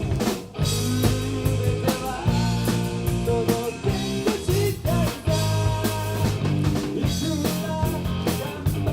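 A rock band playing live, with drum kit and guitar over a steady beat.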